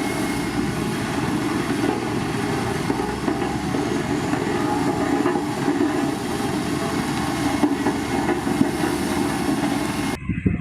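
Heavy diesel road-construction machinery, a motor grader or road roller, running steadily under load with a dense rumbling clatter over a steady engine drone. Near the end the sound changes abruptly to a choppier, lower rumble.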